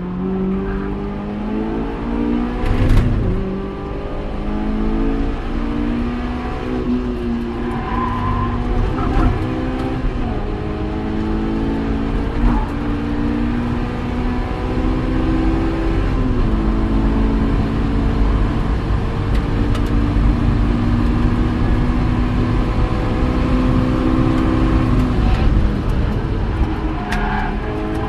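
Honda S2000 engine heard from inside the cabin, pulling hard on track. Its pitch climbs and drops back with each upshift, then eases off near the end as the car slows for a corner, over steady wind and road noise.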